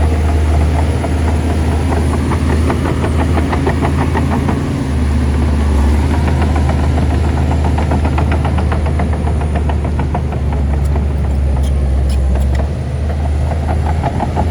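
Shantui crawler bulldozer's heavy diesel engine running steadily at work, with a fast, even clicking over the low engine hum. It dips slightly in level near the end.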